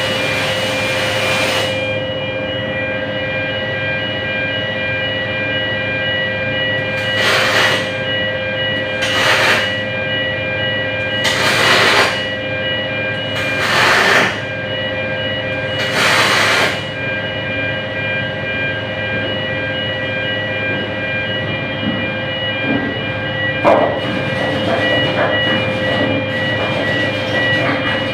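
MIG welding on aluminium with a Kemppi FastMig: six short bursts of arc hiss, each about a second long, over a steady machine hum with a constant high tone. There is a single sharp click near the end.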